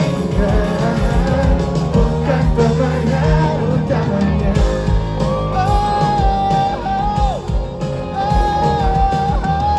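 Live pop-rock band playing: drums keeping a steady beat under guitars and singing. From about halfway through, a melody line holds long notes that bend at their ends.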